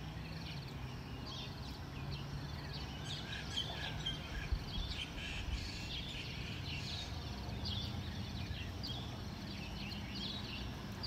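Birds chirping outdoors: many short, high calls scattered throughout, over a faint steady low hum.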